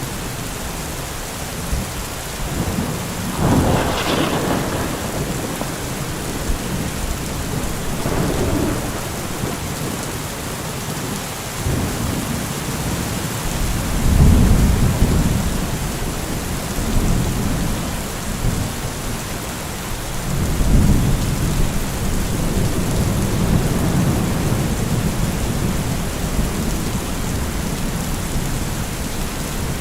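Heavy rain falling steadily, with a low rumble swelling up and fading away several times, loudest about fourteen and twenty-one seconds in.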